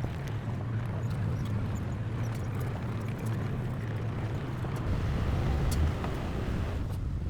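Heavy diesel engine of earth-moving machinery running steadily, with a low throb and a few faint clinks.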